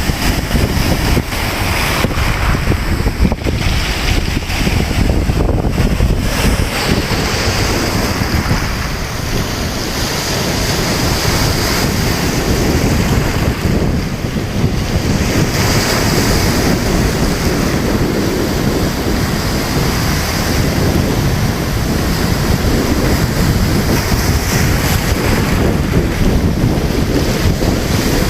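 Sea surf washing onto the shore in continuous swells, with wind rumbling on the microphone.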